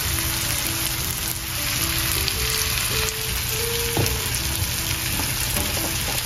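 Onion, pepper and chopped sausage sizzling as they fry in a pot for a sofrito, with ground cumin just stirred in. A single light knock about four seconds in.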